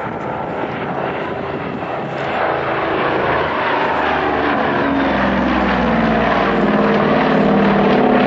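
Propeller airplane engine running, growing steadily louder over several seconds.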